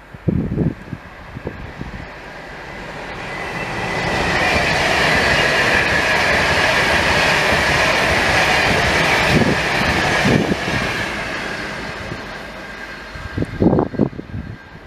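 A train passing through a station: its rushing rail noise builds, stays loud for several seconds, then fades away. Wind buffets the microphone at the start and again near the end.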